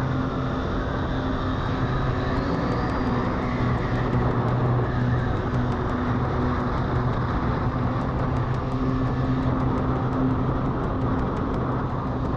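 A vehicle cruising at a steady speed: a constant low engine hum over tyre and road noise.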